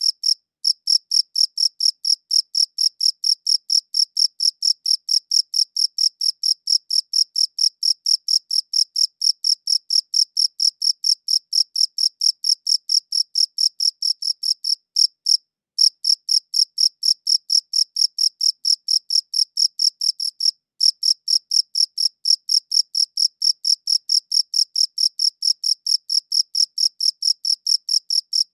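A cricket chirping in a steady, even rhythm: a high-pitched chirp repeated several times a second. It breaks off briefly three times, just after the start, around the middle and about two-thirds through.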